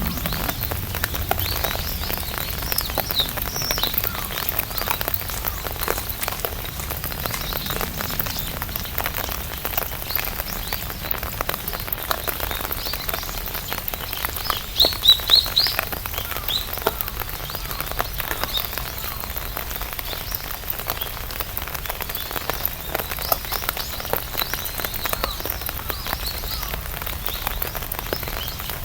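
Rain falling on an umbrella: a steady, dense tapping of drops on the canopy. Birds chirp now and then over it, loudest in a quick run of chirps about halfway through.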